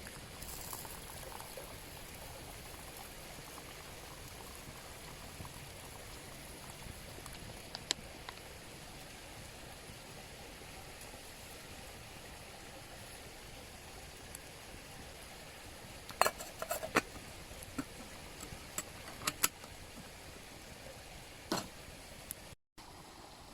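Steady rush of a mountain stream, with a handful of sharp clicks and knocks in the second half.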